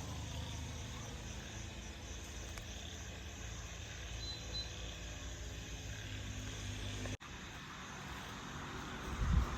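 Tractor's diesel engine running with a steady low rumble. It cuts out abruptly for a moment about seven seconds in, then comes back and grows louder near the end.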